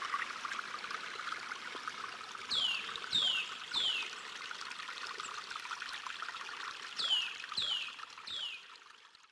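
A steady, crackly trickling hiss with two runs of three short, high, falling chirps, one run about two and a half seconds in and the other about seven seconds in. The sound cuts off abruptly near the end.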